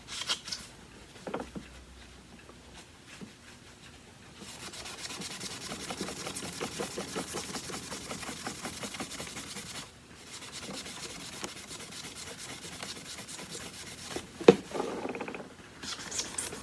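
Quick back-and-forth hand scrubbing on the casing of a Kenmore upright vacuum, rubbing off paint marks. The scrubbing starts about four seconds in, pauses briefly near the middle and resumes, with one sharp knock near the end.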